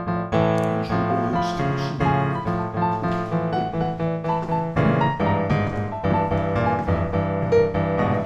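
Background piano music with a steady run of notes.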